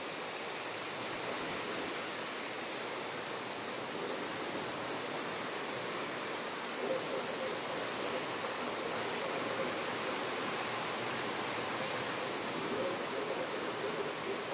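Steady rushing wash of sea surf, even throughout with no distinct events.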